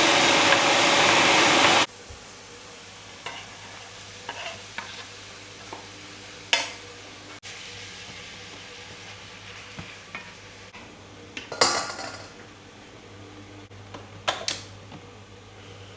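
Beef mince hitting hot olive oil in a frying pan: a loud sizzle for about two seconds that cuts off suddenly. After it comes quieter steady sizzling with a few knocks and scrapes of a utensil stirring in the pan.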